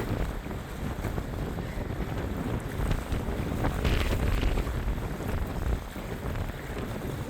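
Wind buffeting the microphone in gusts, a low rumbling noise that swells about four seconds in.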